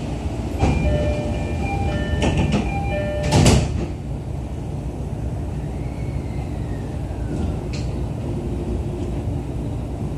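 Inside a JR East E531-series electric train car: a short run of chime tones plays, then a loud brief burst of air about three and a half seconds in, followed by the car's steady low hum with a faint falling whine.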